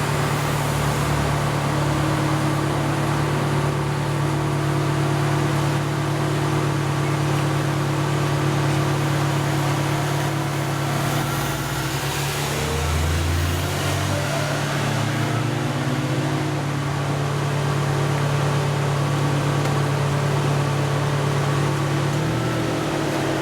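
Hakodate City Tram Type 500 streetcar running, heard from the driver's cab: a steady hum with several held tones that shift pitch about halfway through.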